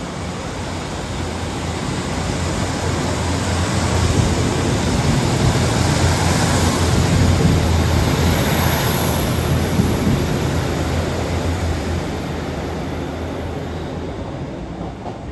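Class 156 Sprinter diesel multiple unit pulling out and passing close by: a steady low diesel hum with wheel and rail noise, growing louder to a peak about halfway through, then fading away.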